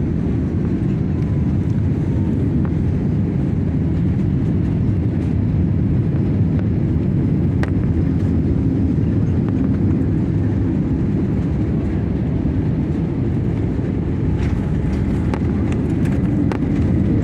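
Airliner cabin noise during the landing: a steady, low rumble of jet engines and airflow heard from inside the cabin, with a few faint clicks near the end.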